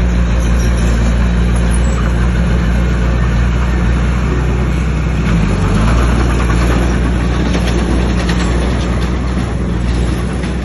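Bulldozer's heavy diesel engine running steadily, with a light clatter of rock or tracks in the last few seconds.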